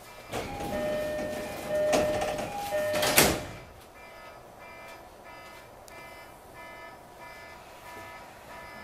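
Unexplained noise from an E233 series Tokaido Line commuter train: a burst of hissing with two held tones alternating in pitch for about three seconds, peaking sharply twice, then dropping to a steady hum with faint pulsing tones. Its cause is unknown, and it does not seem to affect the train's running.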